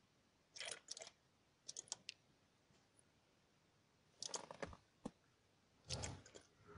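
Near silence with a few faint, short clicks and crackles, some in small clusters.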